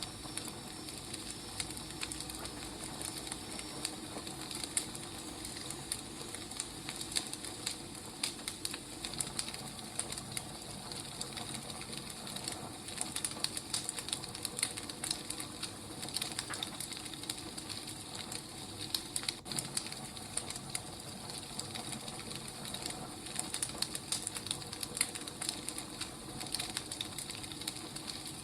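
Firewood burning: a steady hiss with many small, irregular crackles and pops.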